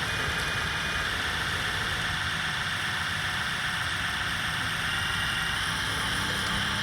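Radio-controlled construction vehicle's motor and gears running steadily, a continuous whir with a low hum underneath.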